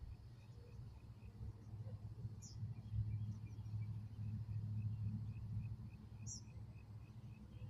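Outdoor natural ambience: a low rumble under a steady run of soft chirps, about three a second. Two brief high falling bird chirps come about two and a half and six seconds in.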